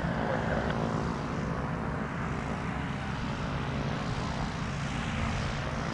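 Propeller aircraft engine running steadily, a constant drone with a low rumble.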